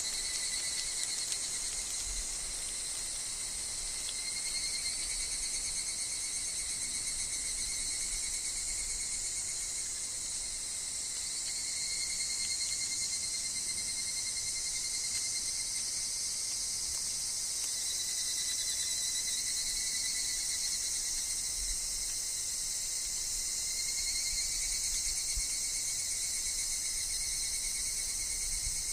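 Dense woodland chorus of higurashi (evening cicadas) and other insects: a steady high shrill buzzing, with lower ringing tones that swell and fade every few seconds. Faint low wind rumbles come and go.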